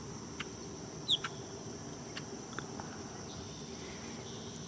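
Steady high-pitched insect drone, with a bird giving one short, sharp chirp about a second in and a few faint ticks.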